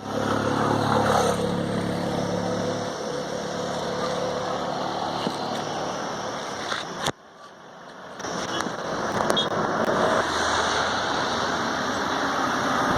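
Road traffic with a vehicle engine running close by, strongest in the first three seconds, over steady traffic noise. The sound drops away suddenly about seven seconds in and returns within about a second.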